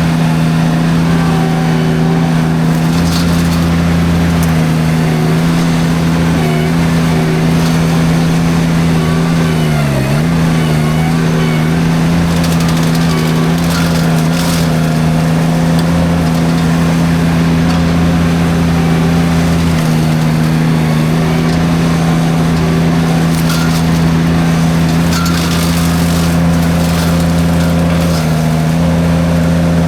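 Derette V1000 mini skid steer's engine running steadily at high throttle, driving a forestry drum mulcher through light brush. About ten seconds in, the engine pitch dips briefly under load and recovers, with scattered crackles as brush is chewed up.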